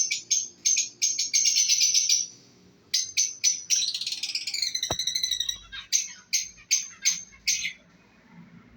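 Lovebirds chirping: a string of short, shrill chirps, a quick run of chatter, then a longer chatter with falling notes around the middle, and a few more single chirps that stop shortly before the end.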